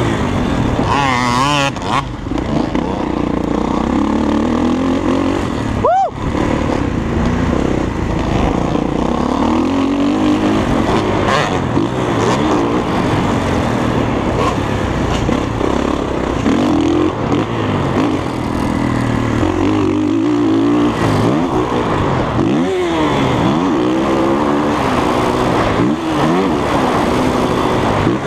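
Dirt bike engine being ridden hard, its pitch climbing and dropping again and again with the throttle and gear changes, over a constant rushing noise.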